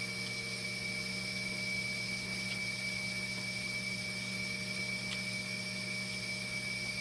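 Steady hum of running machinery with a constant high-pitched whine, and two faint ticks, one in the middle and one about five seconds in.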